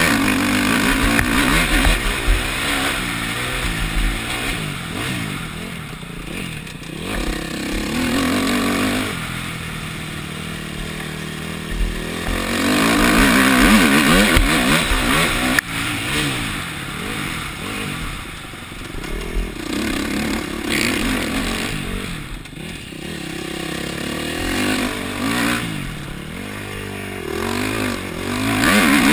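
KTM four-stroke motocross bike engine being ridden hard on a dirt track, its pitch rising and falling repeatedly as the throttle opens and closes, heard from a helmet-mounted camera.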